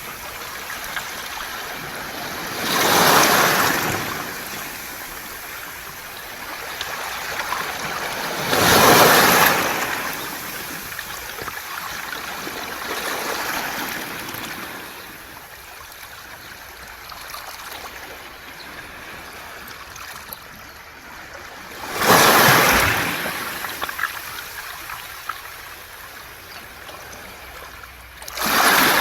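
Waves washing up a round-pebble (mongdol) beach, four loud surges several seconds apart, with water hissing and trickling back through the stones between them.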